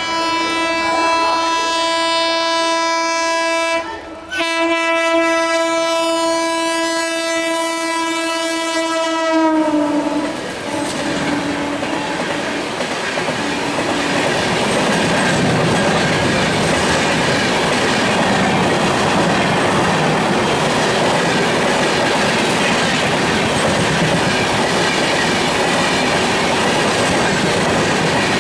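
An ALCo diesel locomotive's horn gives one long steady blast, broken briefly about four seconds in. Near ten seconds its pitch drops and it fades away over the next few seconds. The train then passes with steady wheel clatter over the rail joints.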